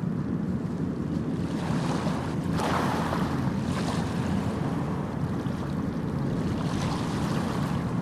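Sea waves washing in: a steady low rumble with a louder swash swelling about two and a half seconds in and a smaller one near the end.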